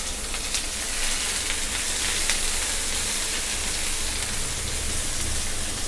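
Chopped onion and green chillies sizzling steadily in hot oil in a non-stick frying pan, stirred with a spatula.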